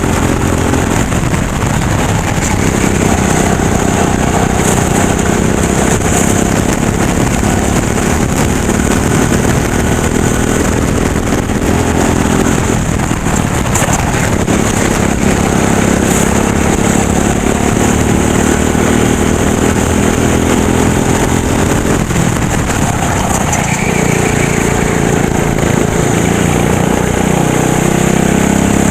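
Racing kart engine heard from onboard, running hard with its pitch rising down the straights and dropping off into the corners, about 13 and 23 seconds in, before climbing again.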